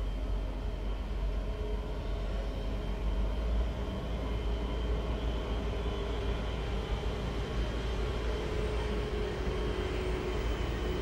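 Freight train hauled by an electric locomotive passing slowly: a steady low rumble with a faint steady tone that grows a little stronger near the end as the locomotive comes by.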